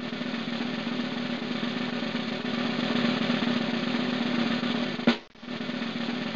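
A steady snare drum roll, broken by a sharp hit a little over five seconds in and a brief gap before it resumes.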